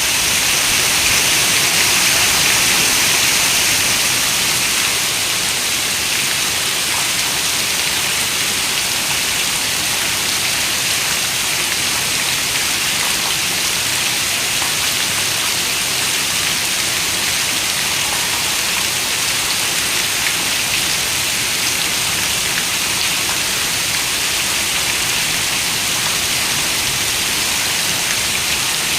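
Heavy rain falling steadily, a dense even hiss of drops on a window, a little louder for the first few seconds.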